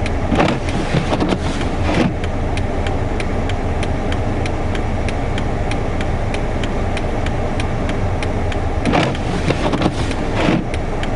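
Car engine idling, heard from inside the car with blizzard wind gusting against it, swelling louder a few times. An even ticking, about three a second, runs through it.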